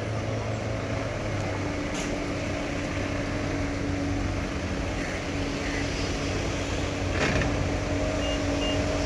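An engine running steadily at idle, with a sharp knock about seven seconds in and three short high beeps near the end.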